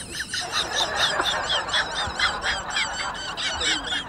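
Rapid high-pitched chirping calls repeating several times a second, like a bird calling steadily.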